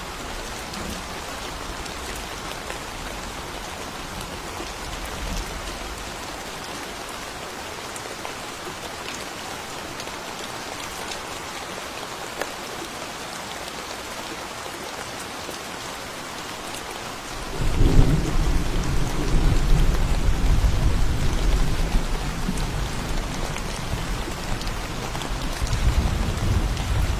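Steady rain of a thunderstorm falling as an even hiss. About two-thirds of the way through, a deep rumble of thunder breaks in suddenly and rolls on, swelling again near the end.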